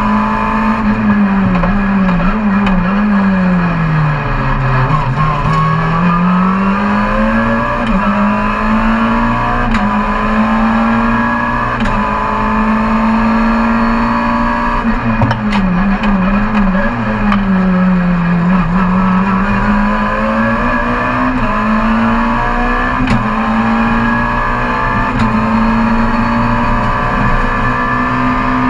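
Car engine running under load, heard from inside the car: a steady engine note that drops twice, about four and eighteen seconds in, as the car slows for bends, then climbs back as it accelerates out.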